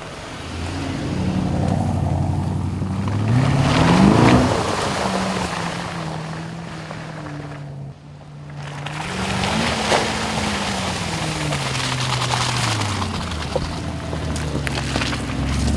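Aston Martin DBX's twin-turbocharged V8 pulling under acceleration, its note climbing sharply about four seconds in and again about ten seconds in, then falling away, over a steady rush of tyre and wind noise.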